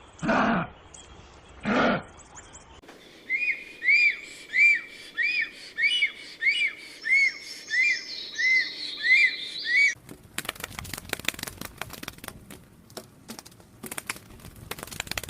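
Two short animal calls, then a bird repeating one clear, rising-and-falling whistled note about a dozen times at an even pace, followed from about ten seconds in by a run of sharp crackling clicks.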